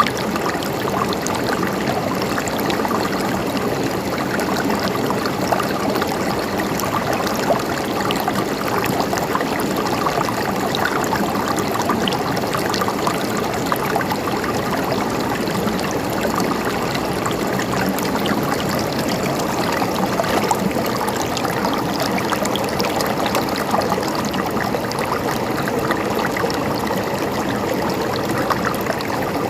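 Water in a small stream babbling and trickling steadily, gurgling over stones.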